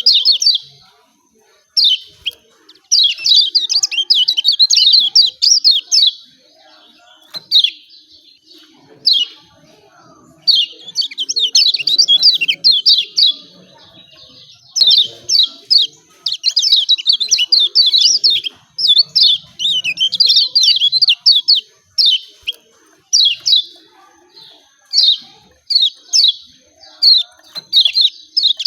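Kecial kuning (white-eye) giving rapid 'ciak ciak' chirping calls in repeated high-pitched bouts, each a few quick notes to a few seconds long, separated by short pauses.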